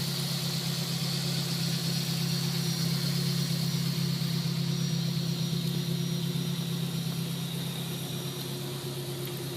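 Morgan Plus 4's 2-litre Ford Duratec four-cylinder engine idling steadily.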